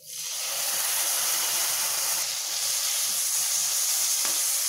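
Chopped tomatoes dropped into hot oil in a kadai, setting off loud sizzling that starts suddenly and holds steady.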